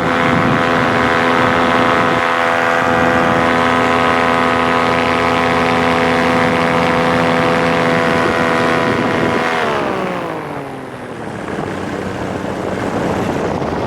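Paramotor engine and propeller running at a steady high pitch, then throttled back about ten seconds in, the pitch sliding down and the engine fading into wind noise.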